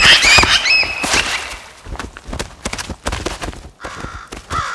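Bald eagles giving high-pitched, piping cries at the start, followed by a rapid series of thumps and rustles, with one more short cry near the end.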